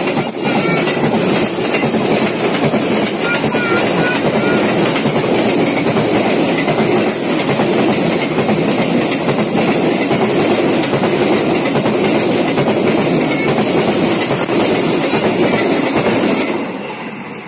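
Freight train of container-loaded flat wagons passing close by: a steady, loud rumble and rattle of steel wheels running over the rails, with a few brief, faint high squeals in the first few seconds. The noise falls away about a second before the end as the last wagon passes.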